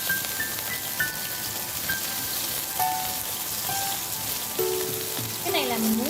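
Oil sizzling and spitting steadily in a hot frying pan, with beef searing in it.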